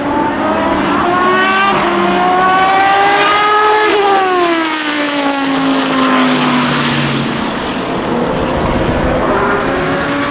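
Dallara SP1's Judd V10 racing engine at high revs, its pitch climbing as it accelerates, then sliding steadily down from about four seconds in as the car passes and pulls away. A fainter rising engine note comes in near the end.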